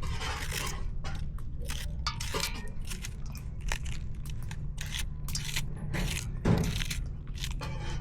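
Irregular scraping, crunching and clinking, like hard objects or utensils being handled, over a steady low rumble, with one louder thump about six and a half seconds in.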